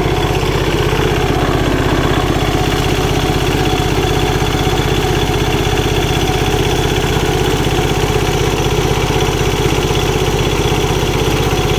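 Diesel tractor engine idling steadily after its fuel system has been bled and the fuel filter cleaned.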